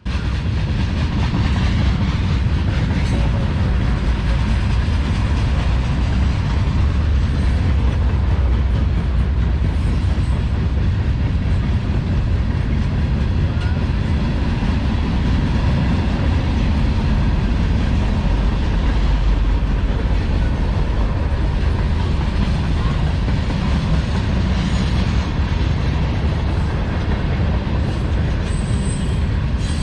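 Freight train rolling past with a steady, heavy rumble of wheels on rail. A few faint, high wheel squeals come near the end.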